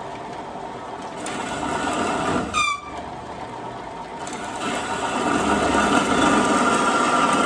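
Metal-cutting band saw running and cutting through galvanized steel tubing, a steady mechanical noise that grows louder through the cut, with a short falling squeak about two and a half seconds in. It stops suddenly at the very end.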